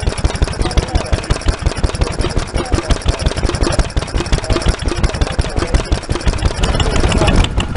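Stationary engine running with a fast, even beat.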